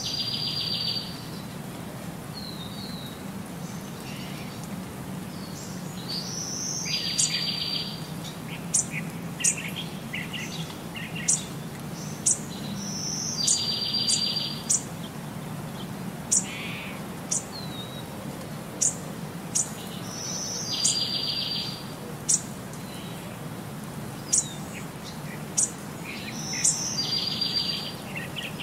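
Birdsong: the same trilled phrase recurs about every seven seconds, each time led by a short high whistle, with brief sharp chirps in between. A steady low hum runs underneath.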